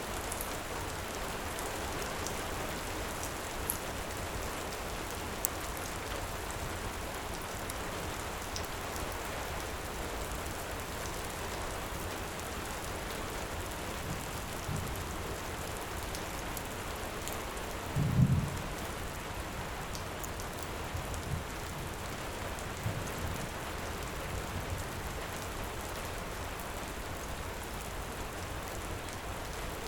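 Steady heavy rain falling, with a short low rumble of thunder about two-thirds of the way through, the loudest moment. A few faint sharp pops from a crackling wood fire are heard in the first half.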